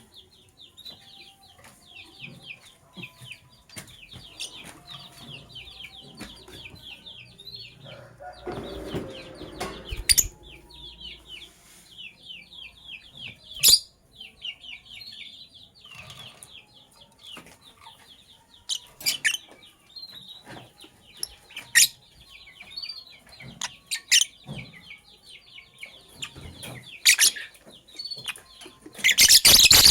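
Lovebirds chattering in rapid trains of short high chirps, broken by several loud, sharp shrieks. A brief low rustle, like fluttering or shuffling, comes about a third of the way in.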